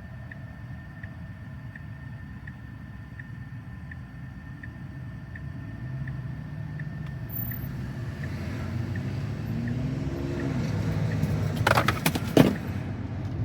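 Turn-signal indicator in a Tesla Model Y cabin ticking evenly, about one and a half ticks a second, dying away about eight seconds in. Road and tyre rumble in the cabin builds as the car picks up speed. Near the end comes a short clatter of sharp knocks as the car makes a quick turn.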